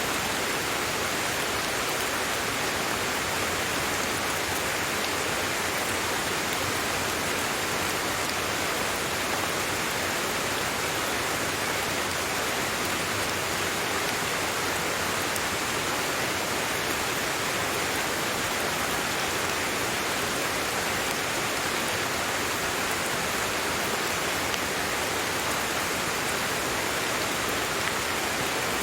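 Steady rain falling, an even hiss of many drops with no breaks or single louder strikes.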